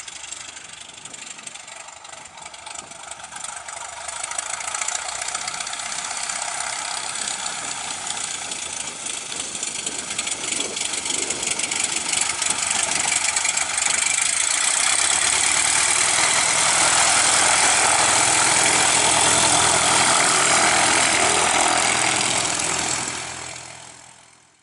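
Vans RV-10's piston engine and propeller getting steadily louder as the aircraft comes closer, then holding loud and steady, and fading out near the end.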